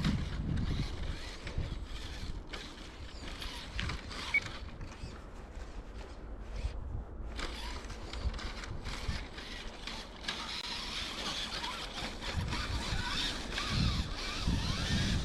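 Electric RC crawler truck driving in snow: its motor and gear drivetrain whirring in stop-start spurts as the throttle is worked, steadier for the last few seconds.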